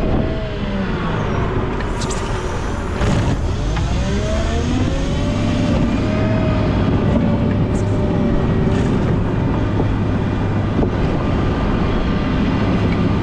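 Volvo L90H wheel loader's engine running, its pitch dipping and rising again as the revs change, with a steady low hum and a couple of short knocks early on.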